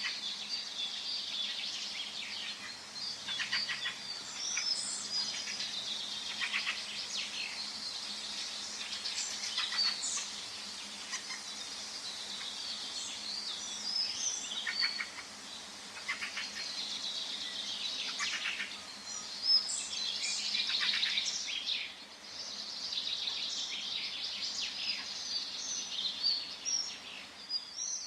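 Forest birdsong: several birds chirping and trilling at once, continuous and overlapping, over a faint steady background hiss.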